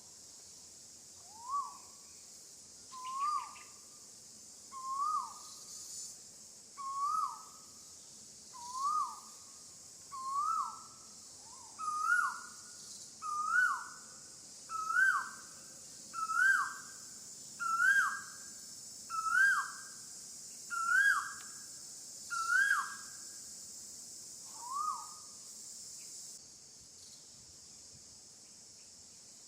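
A bird calling a long series of about fifteen clear notes, one every second and a half. Each note swoops up and drops again, and the series climbs gradually in pitch before stopping. A steady high insect hiss runs behind it.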